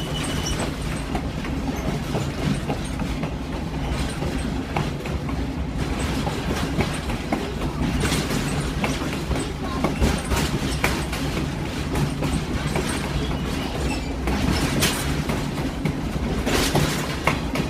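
Passenger train rolling along at slow speed: a steady low rumble of the cars with irregular clicks and clacks of the wheels over the track.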